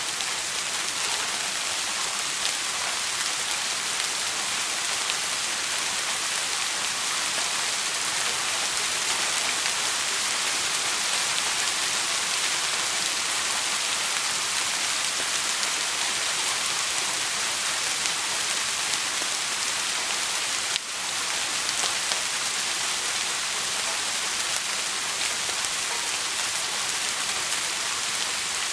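Steady rain: an even hiss with scattered faint drop ticks. The level dips for a moment about two-thirds of the way through.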